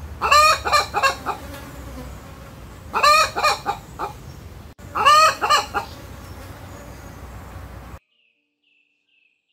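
A hen clucking in three short bursts of quick calls. The audio then drops out to silence for about a second and a half near the end.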